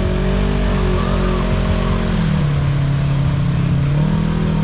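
Side-by-side UTV engine running under throttle, its pitch holding high, dropping a little about halfway through, then rising again near the end.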